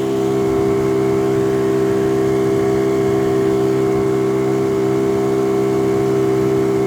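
Small outboard boat motor running steadily at part throttle, a constant even-pitched drone.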